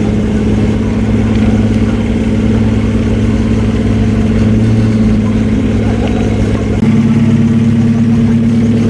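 A vehicle engine idling steadily, its pitch stepping up slightly about seven seconds in.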